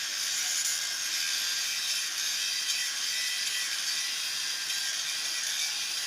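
A steady, high-pitched hissing noise from a tool at work.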